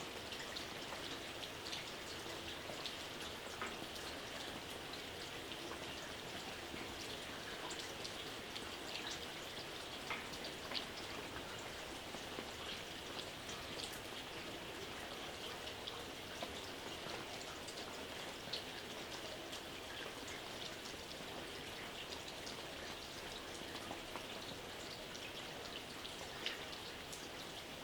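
Steady gentle rain: an even hiss of falling rain with many separate drops ticking sharply on a surface.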